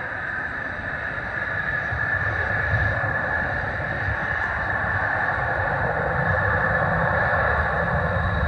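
Jet airliner engines running at a distance, a steady rumble and hiss that slowly grows louder.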